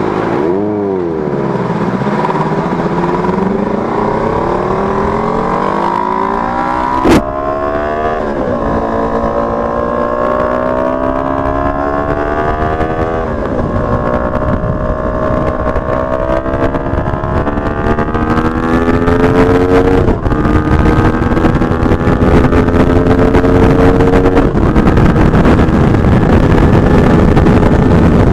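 Benelli TNT 600i's inline-four engine breathing through an aftermarket Two Brothers exhaust canister, accelerating through the gears: the pitch climbs, drops at each upshift and climbs again several times. There is a sharp click about seven seconds in, and wind noise grows in the second half as the bike holds speed.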